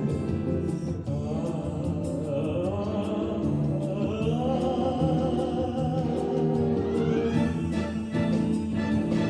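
Brass band playing a song's instrumental interlude, with a long wavering melody note held over a steady accompaniment for the first few seconds.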